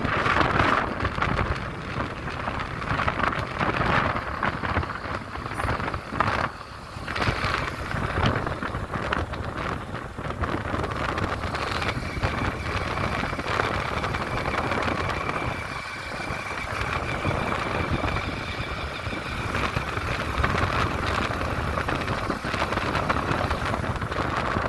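A vehicle travelling along a road: steady engine and road noise, with a faint high whine coming in about halfway through.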